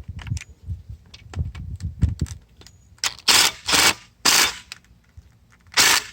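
Impact wrench hammering in short bursts, three in quick succession about halfway through and a fourth near the end, trying to break loose a bolt on a broken connecting rod, after some light knocking of tools.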